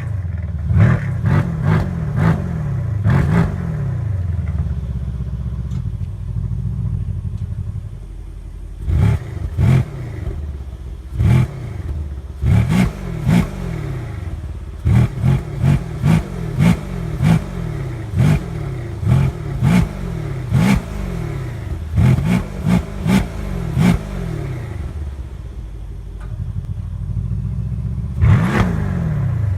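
Mercedes C63 AMG's 4.0-litre twin-turbo V8 through an aftermarket bypass exhaust, revved in repeated quick blips that fall back to idle each time, with sharp cracks during the blips. It idles for a few seconds between the bursts, once near the middle and again near the end.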